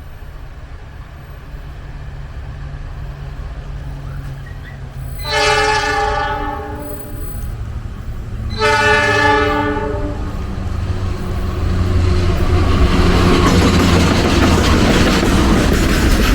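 Diesel locomotive approaching with a low engine hum, sounding its horn in two blasts of about a second and a half each, then the train passing close with rising rail and wheel noise.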